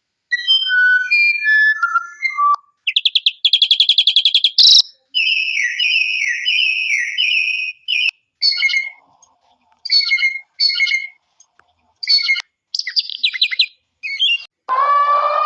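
A run of cartoon bird chirps and whistled calls, with clean silent gaps between them: short whistled notes at changing pitches, a fast trill, warbling calls, then clusters of quick chirps. A brass-like tune comes in near the end.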